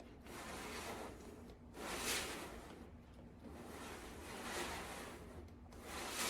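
Spatula scraping and stirring thick, creamy leave-in conditioner around a pot, a run of soft swishing strokes about one every second or so.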